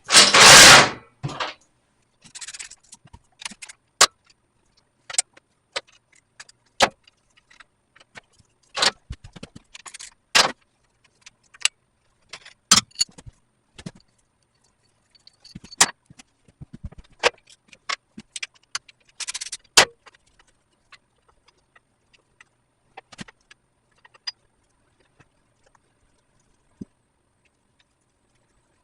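Wrenches and bolts clinking and clanking on a 1975 Kawasaki KZ400 motorcycle frame while its engine mount bolts are undone. It opens with a loud rattle about a second long, then goes on as irregular sharp metal clicks and knocks that grow sparser toward the end.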